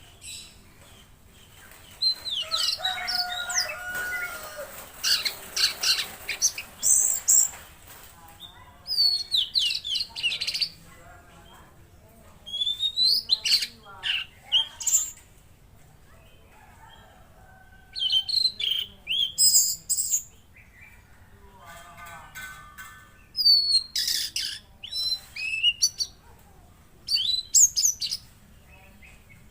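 Tledekan laut songbird singing vigorously: repeated short phrases of quick, high chirps and whistles, broken by pauses of a couple of seconds.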